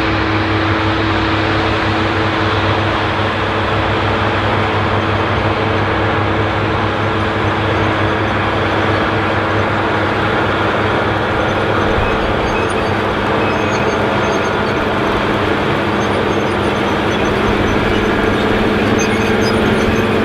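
Allis-Chalmers 7080 tractor's turbocharged six-cylinder diesel engine running steadily under load while pulling a nine-shank chisel plow. Its held tone shifts a little about halfway through.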